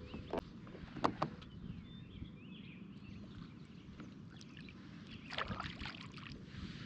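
Pelican Catch Mode 110 fishing kayak on the water: a few sharp knocks on the hull about a second in and a short swishing noise near the end. Birds chirp faintly in the background.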